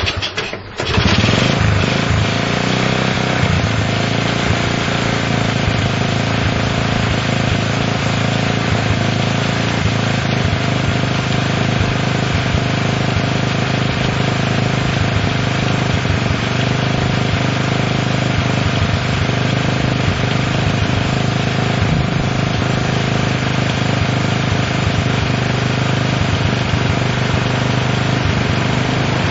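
Honda CL70's small single-cylinder four-stroke engine catching about a second in, after a few sputters, then running steadily at an even idle speed. The carburettor won't give a normal idle: set so that it holds an idle at all, it idles too high.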